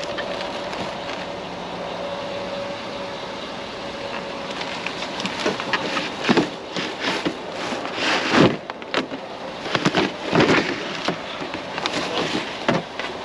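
Vehicle running steadily, then, from about five seconds in, a series of knocks, clatters and rustling as items in a curbside junk pile are handled and moved while being checked for metal.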